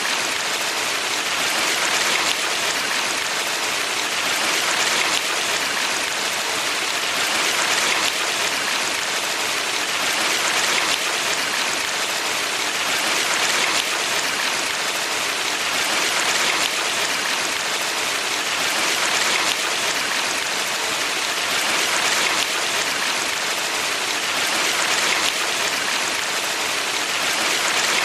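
Mountain valley stream rushing steadily, an even hiss of water that swells slightly about every three seconds.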